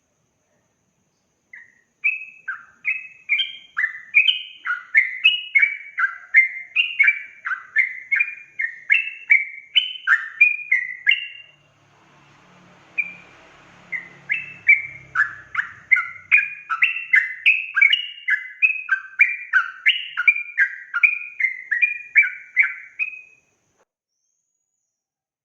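Yellow-vented bulbul (trucukan) singing a long, fast run of bubbly, warbling notes, about two a second. It sings in two long bouts with a short pause around the middle.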